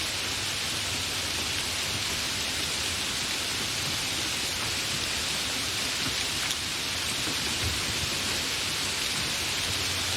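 Steady, fairly heavy rain falling, an even hiss with no thunder.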